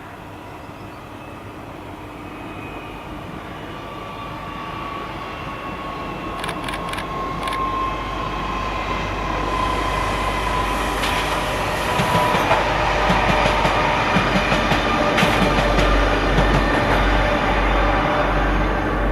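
A train approaching and passing, growing steadily louder for about twelve seconds, then running close by with a rhythmic clickety-clack of wheels over rail joints. A whine runs through it, slowly dropping in pitch.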